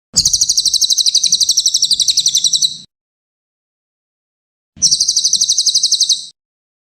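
Brown cililin songbird singing two fast, high trills of rapidly repeated notes, about fifteen a second: the first lasts nearly three seconds, the second begins about five seconds in and lasts about a second and a half.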